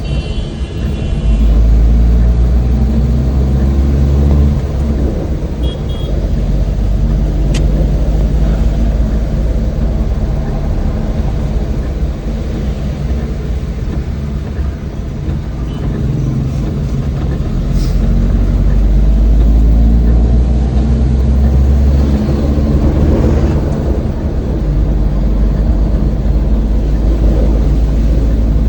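An old van's engine running while driving, with road noise. The engine note rises and falls a few times as it speeds up and changes gear.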